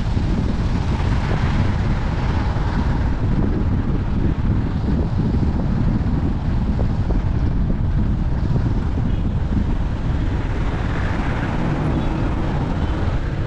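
Wind buffeting the microphone over the noise of a moving vehicle: a loud, even low rumble.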